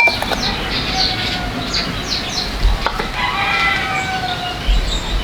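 A rooster crowing once, a drawn-out call of about a second and a half, with short high chirps of other birds just before it.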